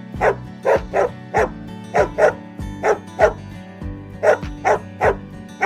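A dog barking repeatedly: about a dozen short barks, often in quick pairs, over background music.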